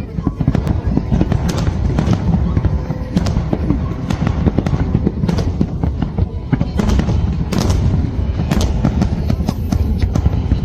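Fireworks display: many shells bursting in quick, irregular succession, sharp cracks over a continuous low rumble.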